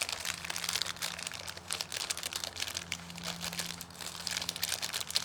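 Plastic packaging crinkling and rustling in irregular bursts as the smoke balls are handled and sorted.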